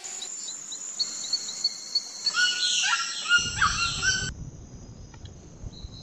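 Tropical forest ambience: several birds calling in short repeated chirps and pitched whistled notes over a steady high-pitched hiss. About four seconds in the calls stop, leaving a low rumble.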